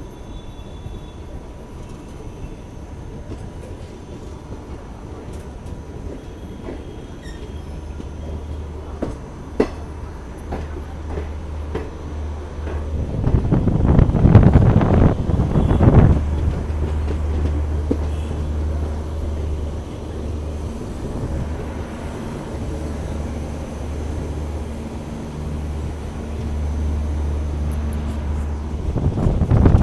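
Passenger train rolling slowly along a platform, heard from its open coach doorway: a steady low rumble, with a louder rushing spell about halfway through and again near the end.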